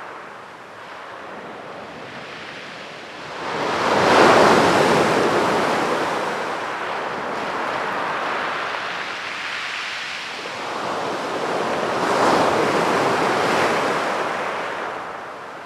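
Sea waves breaking on a beach. A big wave crashes about four seconds in, the loudest moment, and another rolls in past the middle, with a steady hiss of surf in between.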